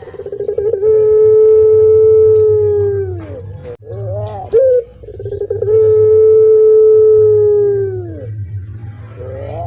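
Puter pelung ringed turtle dove cooing twice. Each call opens with short stuttering notes and ends in one long, steady drawn-out note that falls away at the end. A steady low hum runs underneath.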